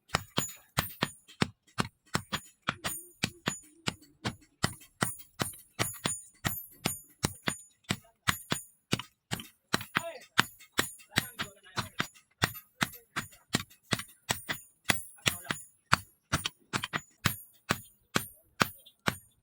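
Hand hammer striking leaf-spring steel on an anvil, about three blows a second, each blow leaving a bright metallic ring: the spring being forged into a knife blade.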